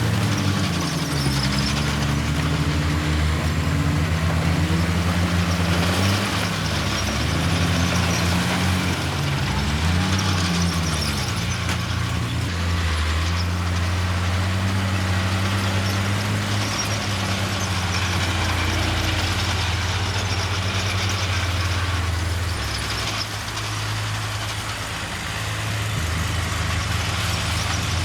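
Diesel engines of heavy earthmoving machinery running, the engine pitch rising and falling several times as they rev under load, then settling to a steadier drone.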